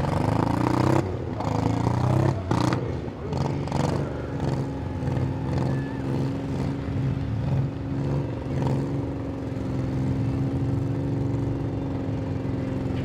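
Demolition derby car engine revving, with several sharp knocks in the first few seconds, then settling to a steadier running note.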